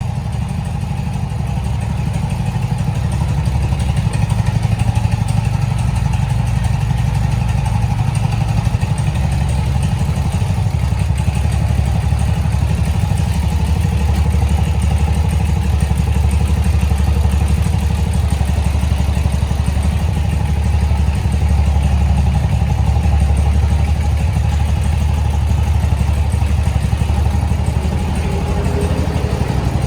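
1978 BMW R80/7's air-cooled flat-twin boxer engine running steadily, with a deep, even exhaust note.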